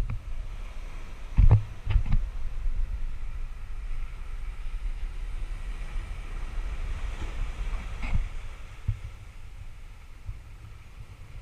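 Wind rushing over the microphone aboard a boat at sea: a steady low rumble broken by a few sharp knocks, the loudest about a second and a half in and another near eight seconds.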